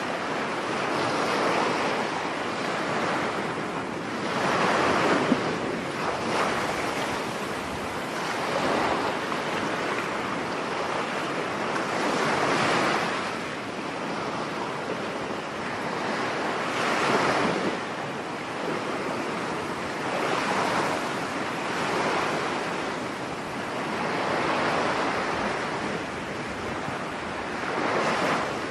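Surf breaking on a beach in stormy weather, each wave swelling and falling back about every four seconds, with wind blowing throughout.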